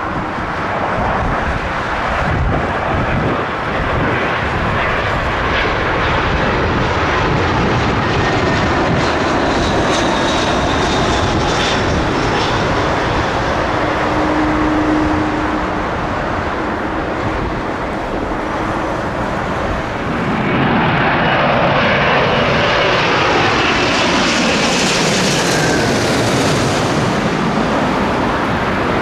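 Jet airliner passing close by, a steady rush of engine noise that grows louder about two-thirds of the way in, its engine whine sliding down in pitch as it goes past.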